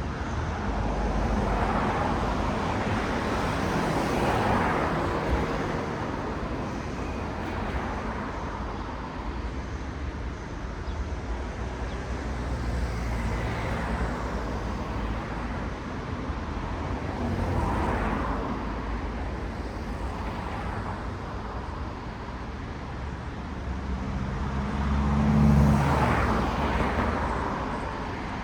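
Road traffic with cars passing one after another, each swelling and fading over a few seconds. The loudest pass, with a low engine rumble, comes near the end.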